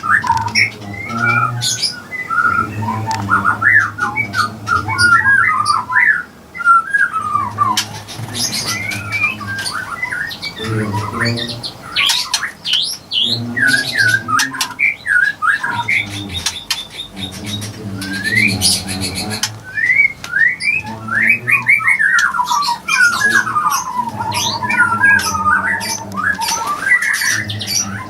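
A group of birds squawking and chirping without a break, with many short overlapping calls and lower-pitched pulsing calls underneath.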